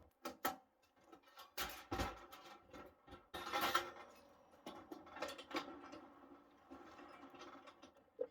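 Knife cutting and scraping into a pumpkin's rind: faint, irregular scrapes and clicks, with the louder strokes about two and three and a half seconds in.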